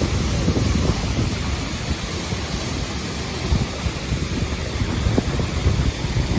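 Wind buffeting the microphone in irregular gusts over a steady rushing hiss.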